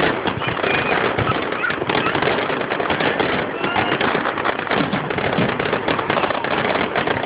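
Fireworks finale: a dense, unbroken barrage of bangs and crackling, each burst running into the next.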